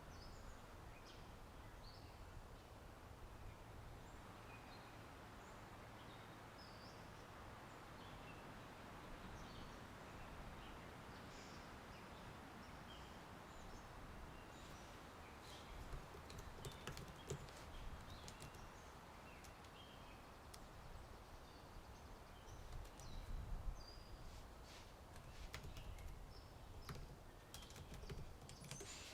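Faint steady wind and rustling leaves with scattered short bird chirps. From about halfway in, bursts of computer keyboard typing clicks join in.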